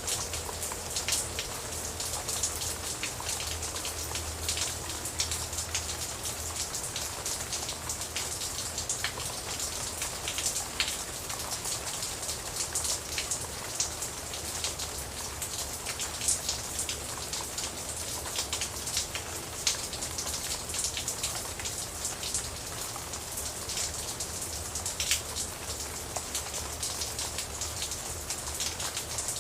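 Steady rain falling on a surface, an even hiss with many sharp individual drop strikes scattered throughout, over a faint low rumble.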